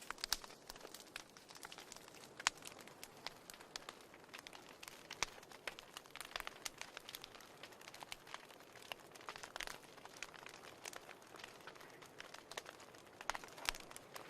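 Wood fire in a fireplace crackling, with irregular sharp pops over a soft hiss and a cluster of louder pops near the end.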